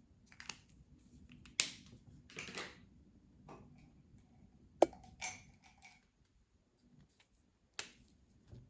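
Colouring tools being handled on a table: a few sharp clicks, as of a marker or its cap being set down or snapped shut, with short scratchy rustles of paper or tip on paper between them.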